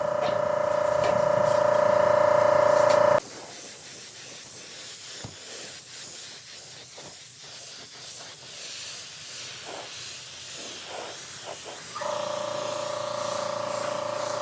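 A steady whine from a motor-driven tool grows louder and cuts off about three seconds in. A stretch of hissing with small scattered knocks follows, and the whine starts again near the end.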